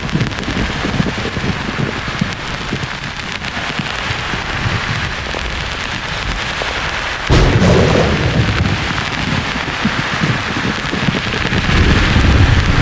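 Steady hiss of white noise or rain under thunder: a sudden crack about seven seconds in, followed by deep rumbling, with rumble building again near the end.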